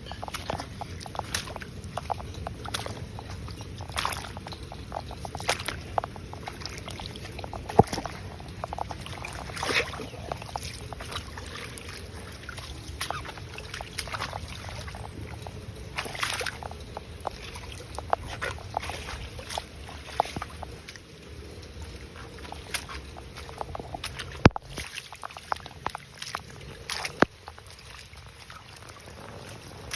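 Shallow floodwater sloshing and splashing in irregular short bursts, with a few sharper, louder splashes or knocks.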